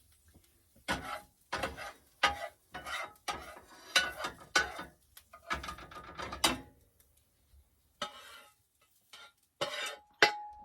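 A utensil stirring and scraping against a dish in quick, uneven strokes, with a brief ringing clink now and then, as when eggs are whisked in a bowl.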